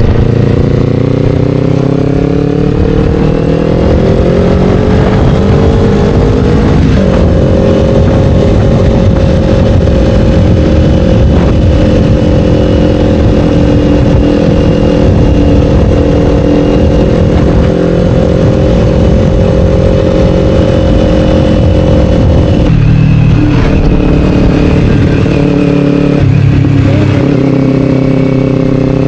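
Kawasaki Ninja 500 parallel-twin engine with an Akrapovic slip-on exhaust, heard while riding. The engine note climbs under acceleration for about seven seconds, then holds steady at cruising speed. About 23 s in the note breaks and drops as the throttle comes off, and it changes again shortly after.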